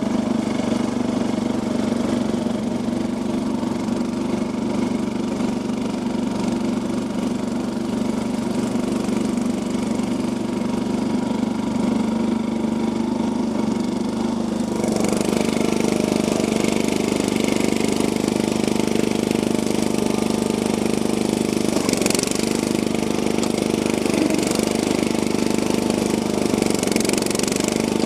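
Converted Yazoo riding lawn mower's engine running steadily; about halfway through it gets louder and harsher as the throttle opens, and holds there.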